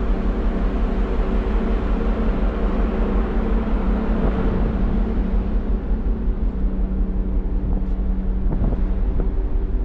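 A large passenger ferry's engines running with a steady low rumble and hum, with wind noise on the microphone.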